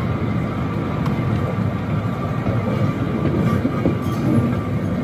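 Small amusement-park train car rolling along its track, heard from on board: a steady rumble of wheels on rails.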